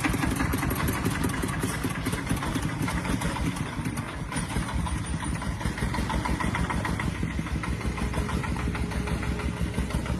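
Truck engine running steadily at idle, with a fast, even pulsing beat.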